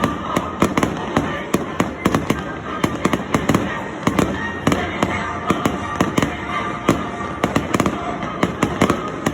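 Fireworks display: a rapid, irregular barrage of bangs and crackles, several a second, over a continuous rumble.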